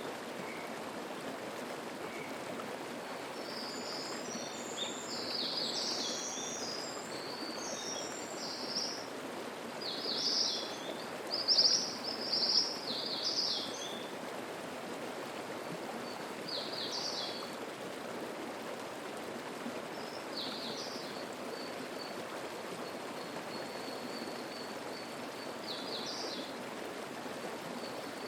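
Mountain stream (the Atera River) babbling steadily over rocks, with wild birds singing short, high, repeated phrases over it, busiest in the first half and sparser toward the end.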